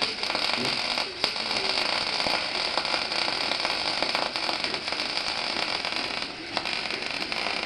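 MIG welding arc crackling and sputtering steadily as a bead is run, with a dense rattle of tiny pops.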